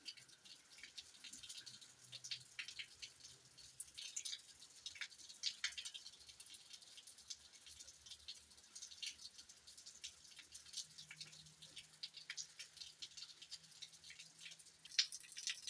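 Rain dripping: faint, irregular drops tapping and ticking over a light hiss.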